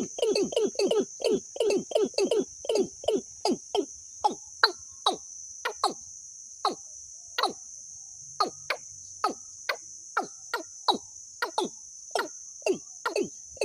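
A bird-call recording used for luring: a series of short, sharp notes, each dropping in pitch. They repeat about five a second at first, slow to one or two a second with a brief pause in the middle, then quicken again near the end, over a steady high-pitched buzzing drone.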